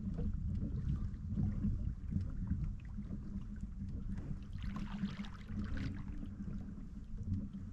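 Wind on the microphone and water moving against a kayak on open water: a steady low rumble, with a brief patch of higher hiss about five seconds in.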